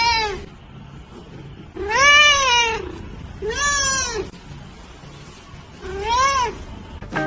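A cat meowing four times: a short falling meow right at the start, then three longer meows that each rise and fall, spread through the rest with quiet gaps between.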